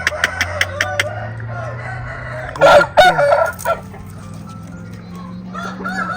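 A rooster crows once, about a second long, near the middle, among softer clucking from other chickens. A quick run of sharp clicks sounds in the first second.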